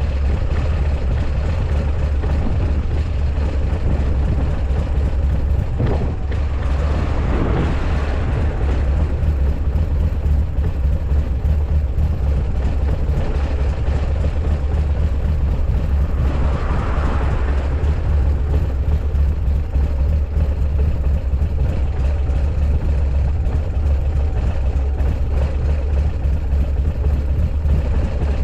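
Buell X1 Lightning's air-cooled 1203 cc V-twin idling steadily, with two brief swells in the sound. The seller presents it as running without abnormal noises.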